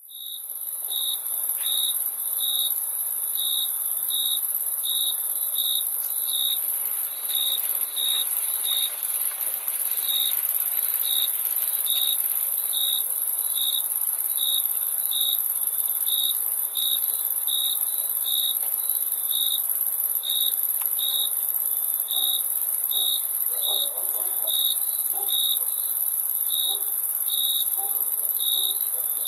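Crickets chirping: a steady, very high-pitched trill with a lower chirp repeating evenly about one and a half times a second. The sound starts abruptly at the beginning.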